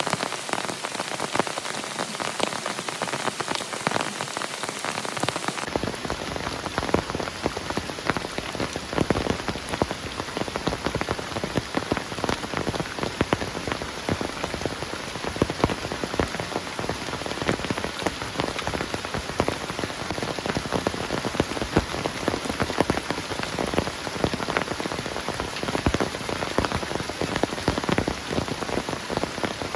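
Heavy rain falling steadily, a dense patter of drops striking surfaces. About six seconds in the sound changes abruptly and gains a fuller low rumble.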